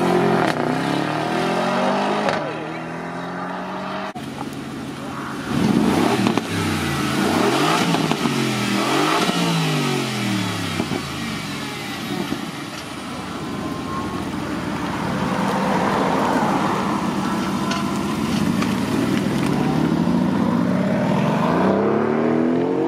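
Supercar engines revving and accelerating away one after another, the pitch climbing and dropping back again and again through gear changes. A Mercedes-AMG E63 S's twin-turbo V8 pulls away at the start, and an Aston Martin Vantage's V8 runs close by partway through.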